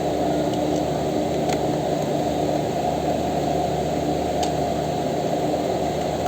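Steady low rushing noise, like a fan or motor, with two faint clicks.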